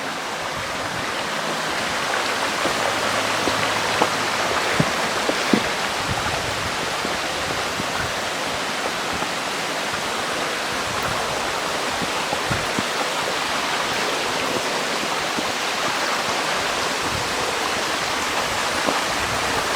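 Mountain stream running over rocks: a steady, even rush of water, with a few light taps a few seconds in.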